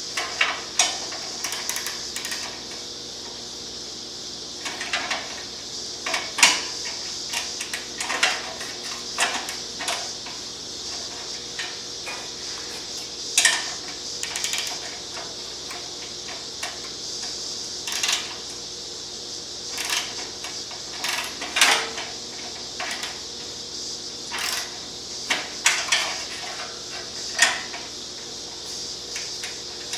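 Hand tools clicking and clinking irregularly against metal as the nuts holding a motorcycle's stock exhaust canister are undone, over a steady hiss.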